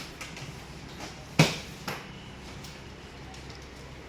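One sharp knock about a second and a half in, then a lighter tap half a second later, over a faint steady low hum.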